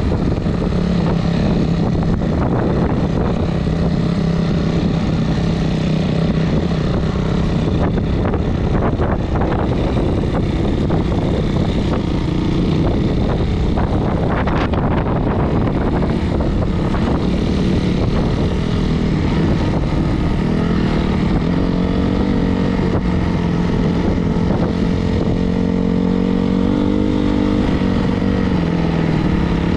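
Four-stroke single-cylinder dirt bike engine running under way, holding a steady pitch at first and then rising and falling in pitch in the last third as the throttle changes.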